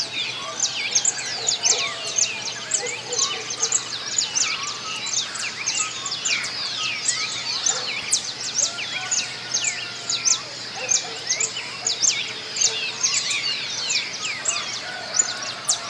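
A dawn chorus of many small birds singing at once: a dense, continuous stream of rapid, high chirps and trills, with a few lower whistled notes beneath.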